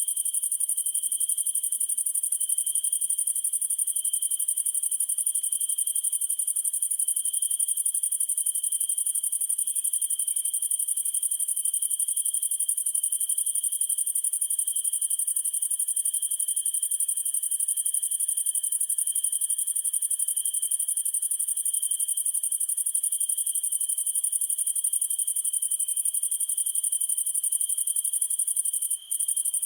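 Summer-night chorus of crickets: a dense, steady high trill with a lower chirping that swells and fades about once a second. Near the end it dips for a moment.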